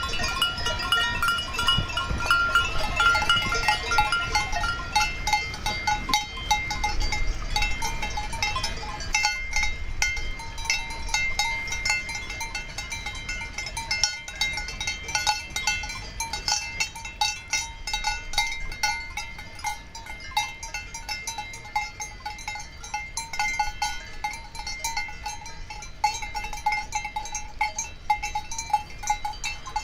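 Cowbells on a herd of cows clanking continuously, several bells of different pitch ringing and overlapping without a break.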